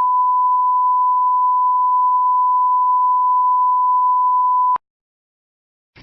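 A single steady, pure electronic beep tone, held for about five seconds and cutting off sharply near the end.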